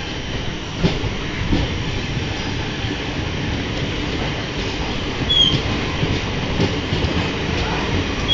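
Passenger train running on the rails, heard from on board: a steady rumble with irregular knocks from the wheels. A brief high squeal comes about five seconds in.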